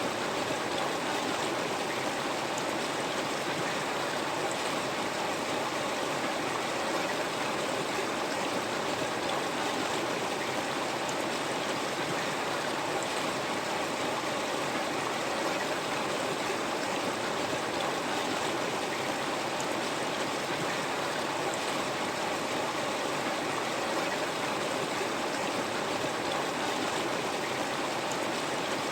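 River water flowing steadily over stones, an even rushing with no breaks or changes.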